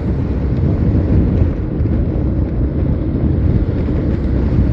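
Steady low rumble of wind buffeting the microphone on a moving motorcycle, mixed with engine and road noise.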